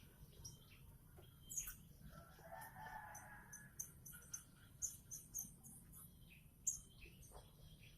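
A rooster crowing faintly once, about two seconds in, among scattered short, high chirps and ticks.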